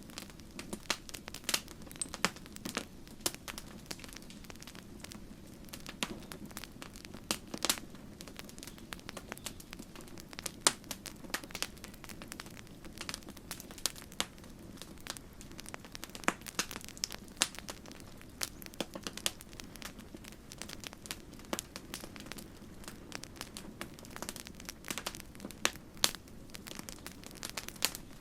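Wood campfire crackling, with irregular sharp pops and snaps several times a second over a steady low hiss of burning.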